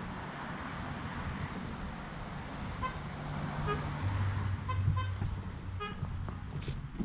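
A miniature railway locomotive's horn giving five short toots in an uneven pattern, the driver's own signalling code, over a low steady motor hum. A sharp click comes near the end.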